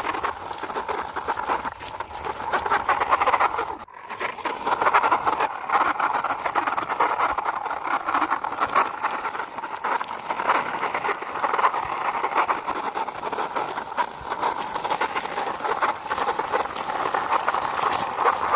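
A toy CNG auto-rickshaw pushed along by hand, its small plastic wheels rolling with a steady rattling noise that briefly stops about four seconds in.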